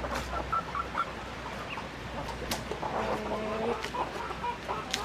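Chickens clucking in a flock: many short clucks and chirps, with one longer drawn-out call about three seconds in and a few sharp clicks.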